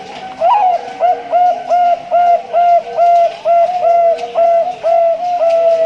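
Male zebra dove (perkutut, Bangkok line) singing: a rising opening note, then a quick run of about a dozen short, clipped coos, two or three a second.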